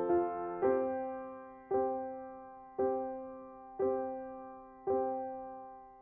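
Slow background piano music: a note or chord struck about once a second, five times, each ringing and fading away, with the playing dying out near the end.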